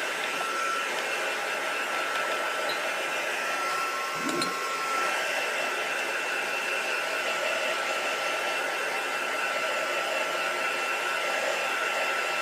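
Hand-held hot-air dryer blowing steadily as it dries wet acrylic paint: a constant rush of air with a steady high whine.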